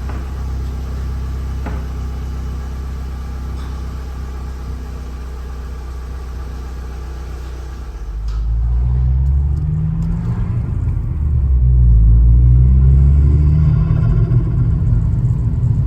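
Vauxhall Astra GSi's turbocharged engine heard from inside the car, running steadily at low revs, then about eight seconds in pulling harder with rising pitch, easing briefly and climbing again. It is running on freshly fitted spark plugs gapped to 0.7.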